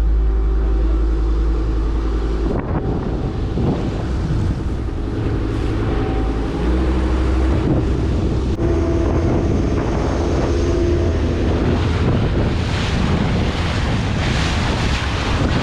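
Small motorboat's engine running underway, with water noise and wind buffeting the microphone, the wind growing stronger near the end.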